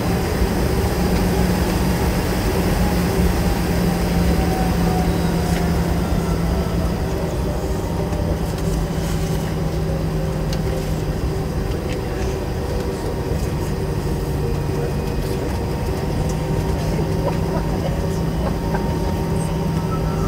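Steady cabin drone inside a McDonnell Douglas MD-90 taxiing, its rear-mounted IAE V2500 engines at idle, with a constant low hum and a fainter tone slowly falling in pitch.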